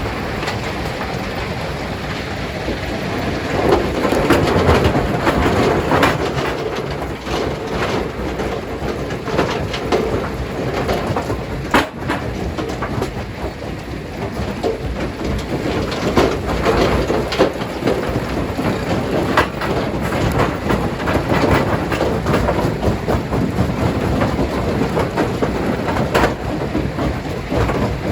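Large rocks clattering, knocking and cracking in a running stone crusher: continuous heavy noise with many irregular knocks, and one sharp crack about twelve seconds in.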